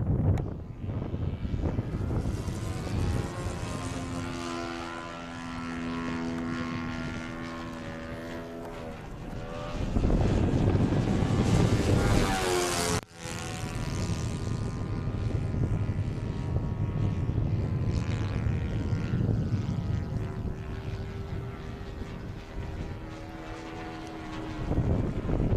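YS 110 supercharged four-stroke glow engine of an RC pylon racer running in flight, its note rising and falling in pitch and loudness as the plane flies past. It is loudest for a few seconds about ten seconds in, cuts out sharply for an instant about thirteen seconds in, and swells again near the end.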